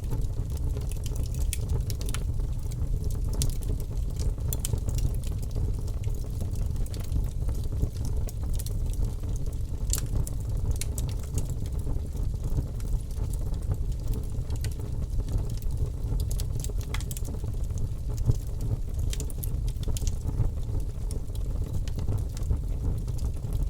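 Logs burning in a fireplace, crackling with scattered sharp pops over a steady low rumble of the flames; one louder pop comes about ten seconds in.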